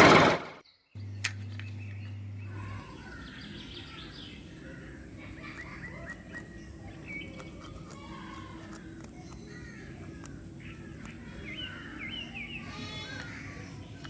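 Birds chirping and calling, with many short gliding notes and quick trills near the end over a faint low hum. A loud noise cuts off abruptly at the very start, and a steady low hum runs for about the first two seconds.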